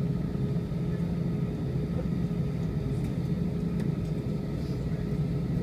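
Airbus A320 jet engine noise: a steady low rumble with a few fixed humming tones over it.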